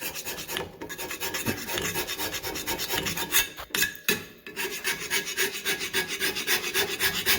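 Carbide hand scraper scraping paint and rust off metal in quick, rhythmic strokes, with a brief break about four seconds in.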